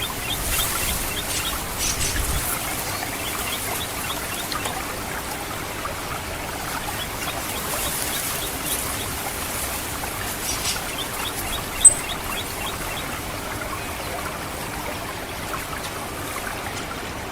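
Water trickling steadily through a rice paddy, with several runs of rapid short chip notes from an orange-headed thrush (anis merah). These are its 'ngecit' call, used to lure the bird. A single sharp high click stands out about twelve seconds in.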